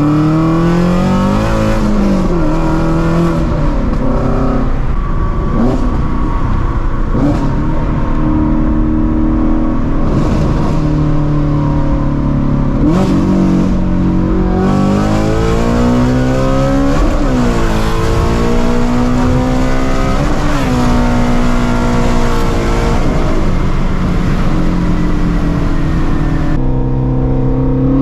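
2016 Shelby GT350's flat-plane-crank 5.2-litre V8, running catless through long-tube headers, repeatedly revving up in pitch and dropping sharply at each gear change, between stretches of steady cruising.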